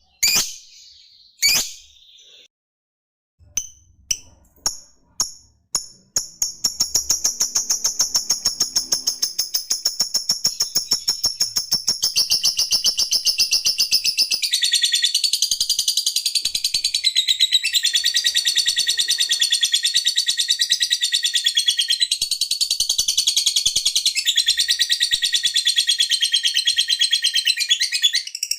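Lovebird calling: a few separate sharp chirps, then from about six seconds in a long, unbroken run of rapid high chirps, the drawn-out 'ngekek' song that lovebird keepers show off.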